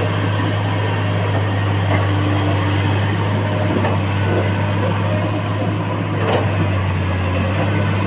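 Excavator's diesel engine running steadily, a constant low hum with machine noise over it.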